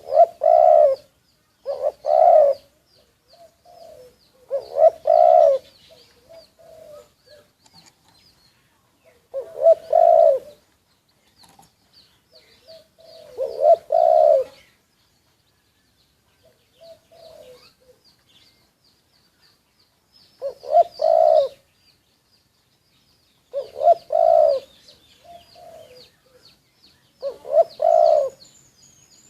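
Spotted doves cooing, a short phrase every few seconds. Faint, rapid high chirping from another bird carries on in between.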